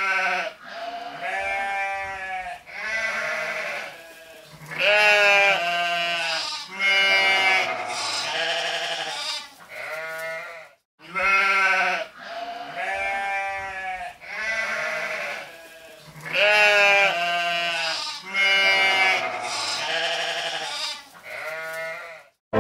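Sheep bleating over and over, many wavering calls that at times overlap, with a short break of about half a second near the middle.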